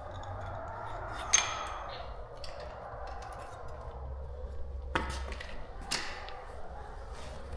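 A few sharp metallic clinks and knocks from hand tools or metal parts being handled. The loudest comes about a second in with a brief ring, over a steady low hum.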